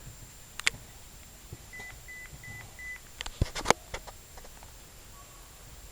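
Four short, evenly spaced electronic beeps at one high pitch, with sharp clicks before and after them; the clicks near the middle are the loudest.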